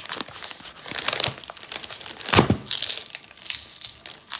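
Plastic packaging crinkling and rustling as it is handled, with one louder thump about halfway through.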